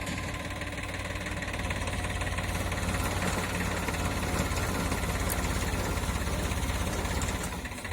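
Tractor engine running steadily with an even low pulse. It gets a little louder about two seconds in and eases off near the end.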